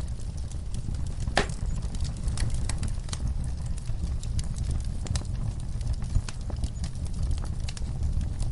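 Wood fire in a fireplace crackling: irregular sharp pops and snaps over a steady low roar, with one louder pop about a second and a half in.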